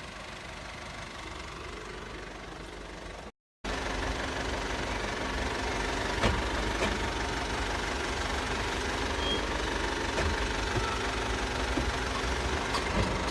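Running noise of a 2016 Honda CR-V heard from inside the car, a steady low rumble that drops out briefly about three seconds in and comes back louder, with a few faint clicks.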